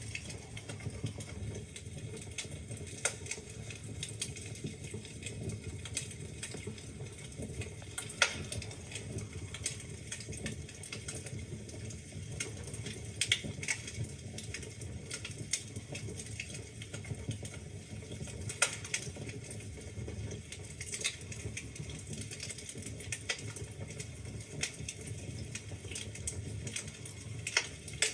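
Wood fire crackling in a fireplace: a steady low rumble of burning logs with irregular small crackles and a few louder pops.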